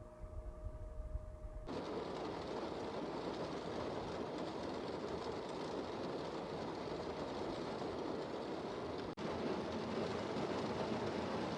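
Heavy typhoon rain coming down steadily, starting abruptly about two seconds in, where it replaces a low rumble with a steady hum; the rain briefly cuts out for an instant later on.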